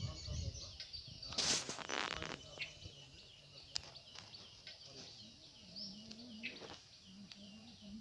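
Small birds chirping over and over in open scrub countryside, with a brief loud rush of noise about a second and a half in.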